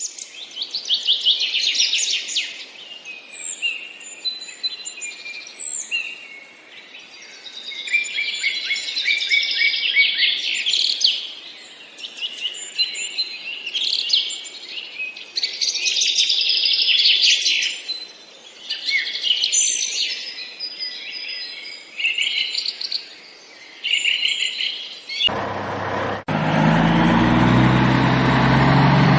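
Many birds chirping and singing together in dense, overlapping high calls. About 25 seconds in, the birdsong cuts off abruptly and a steady, low engine-like drone takes over.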